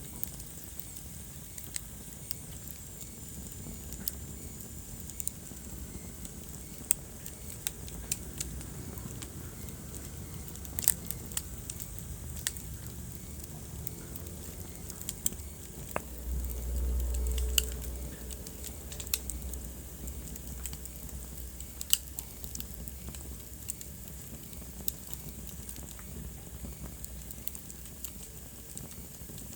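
Wood fire crackling in a fireplace: irregular sharp pops and snaps over a steady hiss, with a low rumble for a couple of seconds just past the middle.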